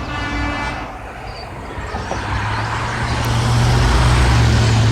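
Road traffic: a motor vehicle running, its low drone growing louder from about two seconds in, with a brief high tone at the very start.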